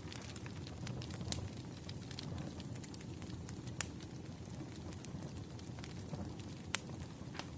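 Wood fire burning, a steady low rumble with scattered sharp crackles and pops, two louder pops about four and seven seconds in.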